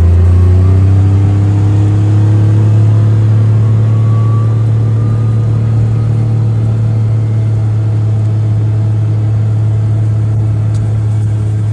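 Motor vehicle engine and road drone, a loud steady low hum that rises slightly in pitch during the first couple of seconds as the vehicle speeds up, then holds steady.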